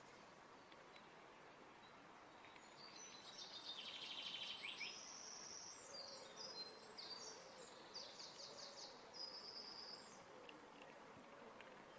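Faint songbird song: a run of high, quick trills and short whistled notes, starting a couple of seconds in and stopping before the end, over a faint steady background hiss.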